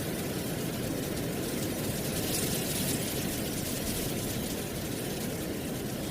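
Wind blowing through dry autumn leaves: a steady low rumble with a crisp rustle over it, swelling briefly about two to three seconds in.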